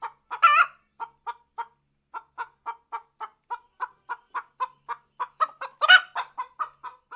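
Domestic hen clucking: a steady run of short clucks, about three a second, broken by two louder, drawn-out squawks, one about half a second in and one near the end.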